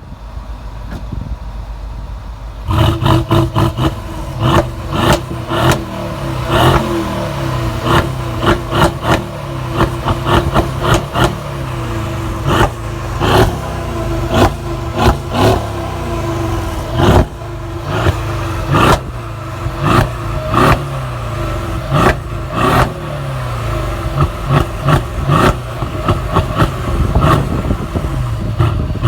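Mercedes-AMG GLE63S Coupe's twin-turbo V8 exhaust, loud from about three seconds in, revved repeatedly between idle and higher revs. Many sharp cracks from the exhaust run through it.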